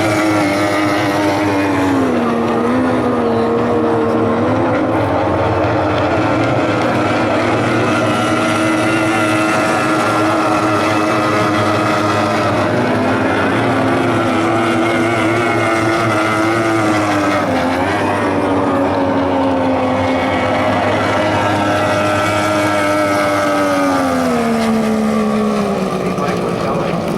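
Racing outboard hydroplanes running at high revs, with more than one engine tone heard at once. The engine pitch drops about three-quarters of the way through as the boats throttle back.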